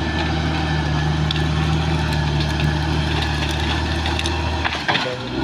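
Caterpillar D6R XL bulldozer's diesel engine running steadily, with scattered clicks and clanks from the machine at work. Near the end the low engine hum dips briefly under a short burst of clatter.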